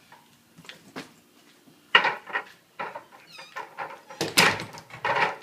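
Knocking and rattling of something handled close to the microphone: a sharp knock about two seconds in, and a longer loud rattle near the end. A quick run of short high squeaks comes in between.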